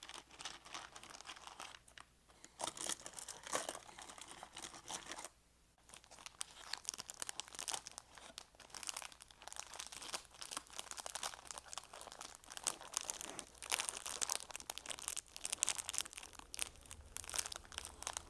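Crinkling of a crinkly material worked by hand close to the microphone as an ASMR trigger: a dense run of fine crackles that comes in bursts, with a short pause about five seconds in.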